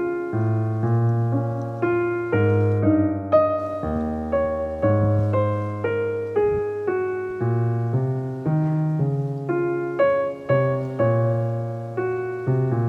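Soft background piano music: a steady run of single notes and chords, a new one struck about every half second and left to ring.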